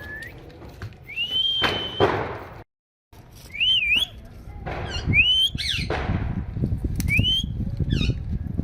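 A parrot whistling: several rising, wavering whistles, each about half a second to a second long, mixed with short sharp chirps. The sound cuts out completely for a moment about three seconds in.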